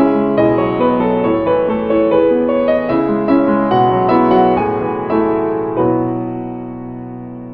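Background piano music: a run of notes that settles into a held chord about six seconds in.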